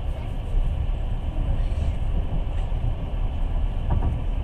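Passenger train running, heard from inside the carriage: a steady low rumble from the wheels on the track.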